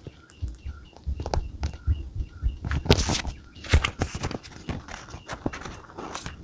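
Paper and stationery being handled on a desk: irregular taps, clicks and light knocks, with louder rustling of paper about three seconds in and again just before four seconds.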